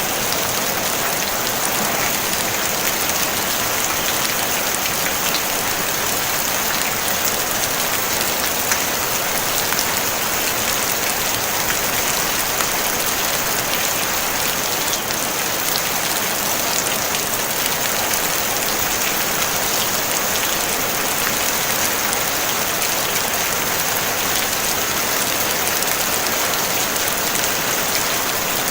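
Steady rain on a tin roof: a dense, even patter of drops with no thunder.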